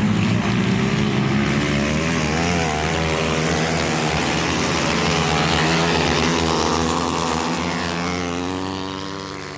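Flat track racing motorcycle engines running hard, their pitch rising and falling with the throttle as the bikes go round the dirt oval. The sound fades toward the end.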